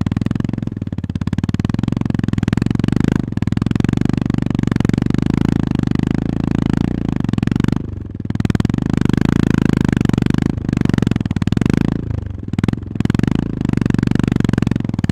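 Honda GB350S's 348 cc air-cooled single-cylinder engine pulling under throttle in a steady, pulsing thump. The throttle closes briefly about eight seconds in and again around twelve seconds in, with the revs falling each time before it picks back up.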